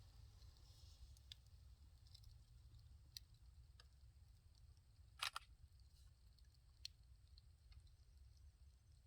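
Faint crackling of a burning wood fire: a few sparse, sharp pops from the firewood, the loudest a quick double pop about five seconds in, over a low steady rumble.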